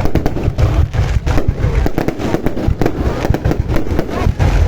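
Aerial fireworks going off in rapid succession: a dense barrage of sharp bangs and pops, several a second, over a continuous low rumble.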